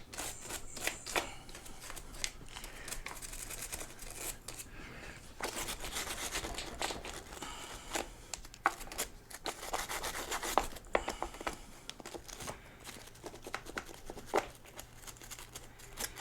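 Scooter seat being wiped and scrubbed clean by hand: irregular rubbing strokes with a few sharp clicks in between.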